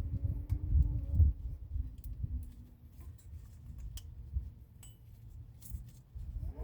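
Scattered light clicks and clinks, with low rumbling noise in the first second or so.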